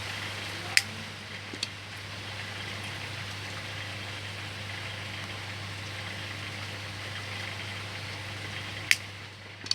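Short sharp clicks from fitting crossbars and spokes into a handmade bird cage frame, two in the first two seconds and two near the end. They come over a steady low hum and hiss.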